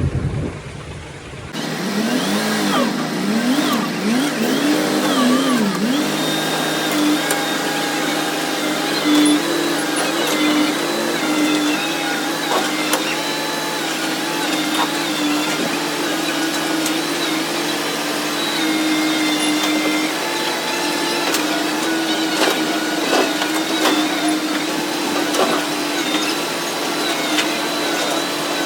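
Excavator's diesel engine running under changing hydraulic load, its pitch rising and falling several times in the first few seconds, then holding steady. Occasional sharp clicks and knocks come through over it.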